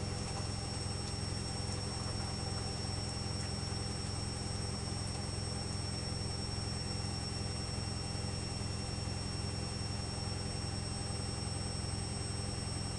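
Electrolux EWS 1045 washing machine running steadily through its cycle: a constant low hum with a faint high whine on top.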